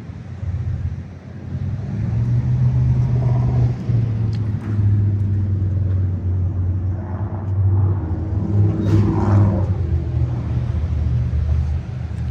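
A motor vehicle engine running with a loud, deep, steady rumble that comes up suddenly at the start.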